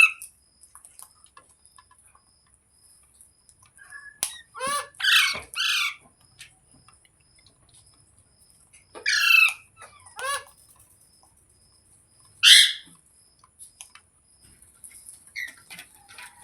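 Green parrot squawking in short, harsh calls: a quick run of three, then two more after a pause, then one loud single squawk.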